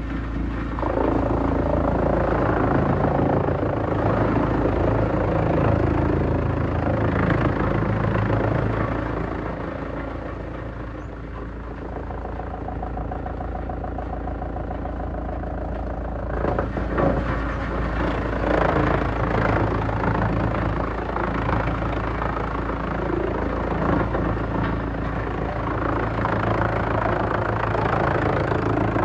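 Large industrial wood chipper running with a steady low engine drone. It grows louder and noisier as wood is ground up, for most of the first nine seconds and again from about seventeen seconds on, with an easier stretch between where a steady whine shows through.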